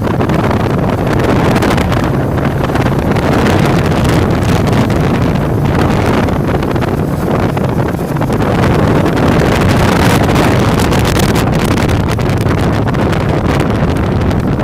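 Loud wind buffeting the microphone, a steady low rumble that swells and eases in gusts.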